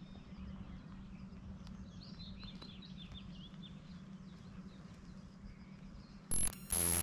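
Faint birdsong, short chirps with quick pitch changes, over a steady low hum. Near the end come two short, loud bursts of harsh noise, each about a quarter of a second, with a high whine in them.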